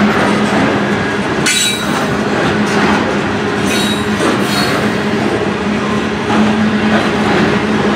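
Grain hopper cars of a freight train rolling past, a steady rumble of steel wheels on rail. Brief high-pitched wheel squeals rise over it about one and a half seconds in and again around four seconds.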